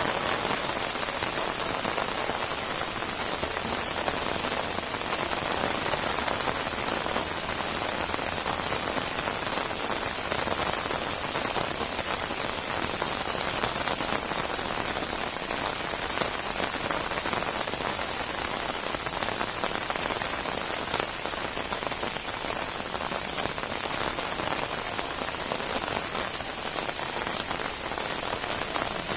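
Steady heavy rain falling and pattering on surfaces, a dense even hiss with no let-up.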